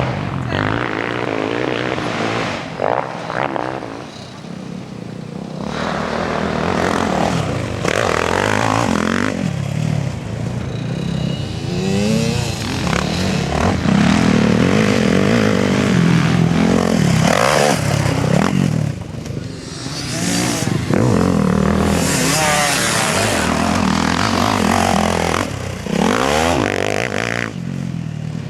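Motocross bikes riding a dirt track, their engines revving up and down over and over as they accelerate and shift. The sound eases off around four seconds in and is loudest in two stretches in the second half.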